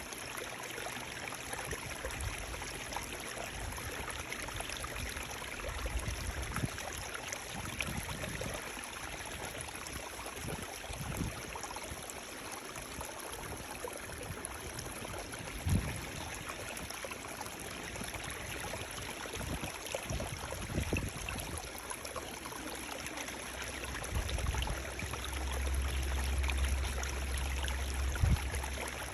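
Running water flowing with a steady, even rush, broken by a few short low thumps and a low rumble near the end.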